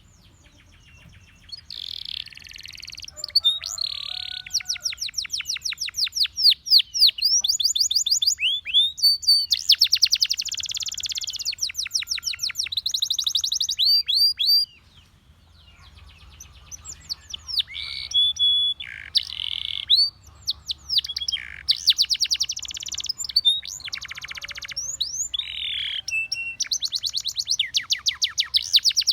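Russian singer canary singing a long song of fast trills of rapidly repeated notes and rolls, broken by short pauses about a second in and about halfway through.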